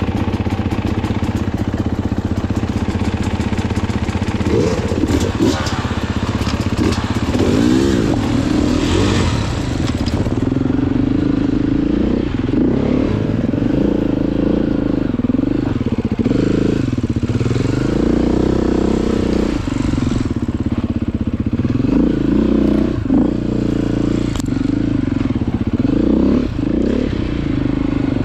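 Dirt bike engine under way on a trail, the revs rising and falling over and over as the throttle is worked.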